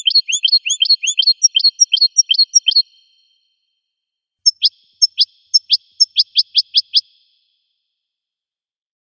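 Goldfinch song: two phrases of quickly repeated rising chirps, three or four a second, over a clean silent background, with a pause of about a second and a half between the phrases.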